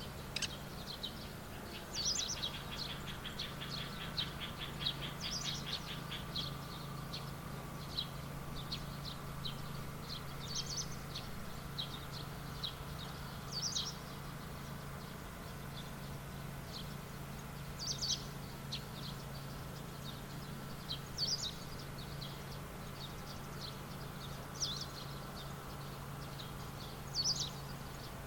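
Birds calling in the open, one repeating a short high call about every three seconds, with a quick run of chirps in the first few seconds. A steady low hum runs underneath.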